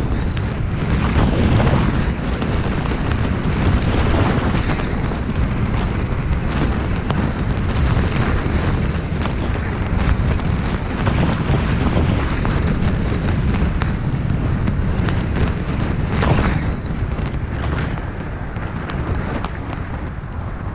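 Heavy wind rumble on the microphone while skiing, with skis hissing through snow in irregular swishes.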